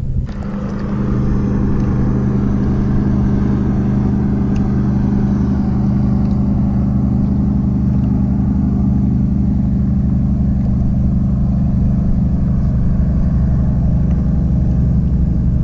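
Boat engine running steadily: a low, even hum that comes up in the first second and then holds constant.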